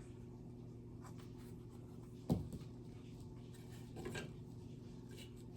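Quiet handling of craft materials on a table: a single soft knock about two seconds in and a faint rustle of moss being pressed on a little later, over a steady low hum.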